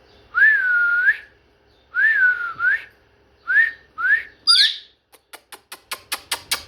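Pet parrot whistling: two longer whistles that rise, dip and rise again, then three short upward whistles and a brief harsh squawk. A quickening run of sharp clicks follows near the end.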